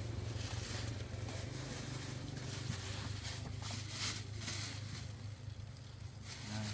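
Fruit being handled at a market stall: scattered rustling and light clicks over a steady low hum.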